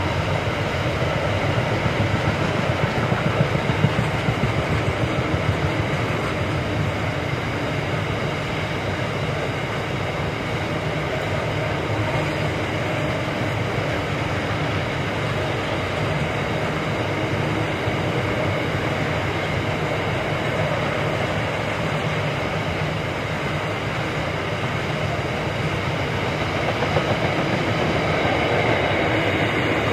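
Freight wagons loaded with steel coils rolling steadily past: a continuous rumble of wheels on rail, with a few louder knocks about three to four seconds in.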